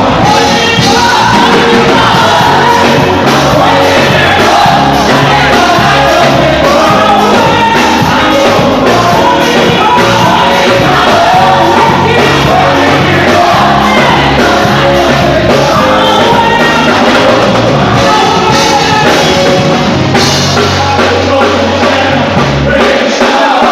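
Live gospel worship music: a band with a drumbeat and bass line plays loudly under singing voices, and the bass drops out near the end.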